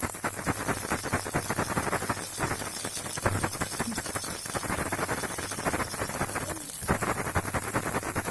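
Plastic baby rattle shaken without a break, a dense stream of small rattling clicks, with a brief pause about six and a half seconds in.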